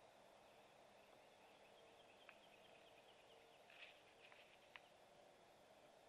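Faint woodland ambience: distant bird calls, a quick run of short high notes and a brief louder call, with a few sharp clicks over a steady low hiss.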